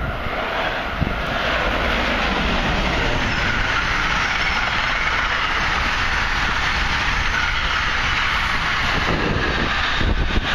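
Passenger train passing close by at speed: a loud, steady rush of wheels on rail and moving air that builds over the first second or two and then holds.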